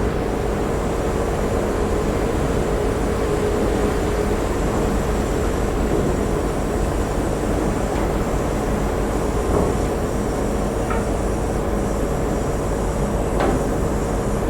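Steady drone of the ferry Ritsurin 2's engines and machinery, a constant rumble with a steady hum over it. A faint tick comes near the end.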